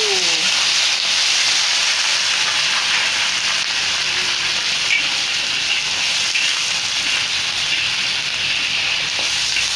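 Fried tofu pieces sizzling in hot oil and garlic in a wok: a steady hiss of frying.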